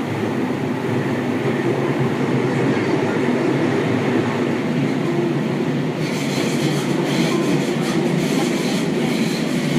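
Seibu 6000 series electric train running at speed through a tunnel, heard from inside the car: a steady, loud rumble of wheels and running gear. About six seconds in, a brighter rattling hiss with a quick rhythmic clatter joins it.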